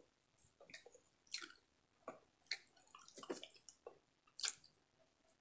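Faint, scattered wet mouth smacks and clicks of someone chewing fried frog and rice, a short click every half-second or so.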